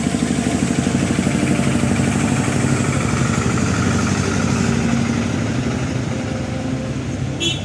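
A truck engine running loudly with a fast, even chug, easing off slightly toward the end. A short high squeal comes just at the end.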